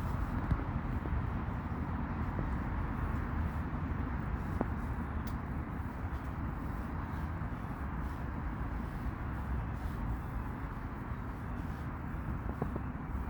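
Steady outdoor background rumble, strongest in the low end, with a few faint clicks.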